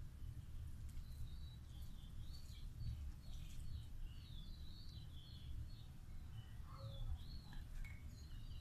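Small birds chirping in quick, repeated high calls over a low steady rumble.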